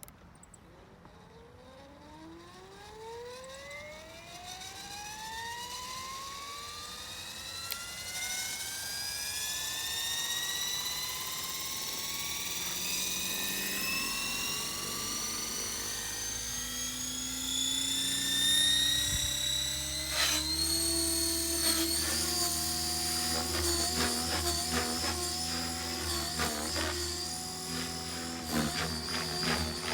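RC helicopter's motor and rotor spooling up: a whine rising steadily in pitch and growing louder over about twenty seconds, then holding at speed with small wavering changes in pitch.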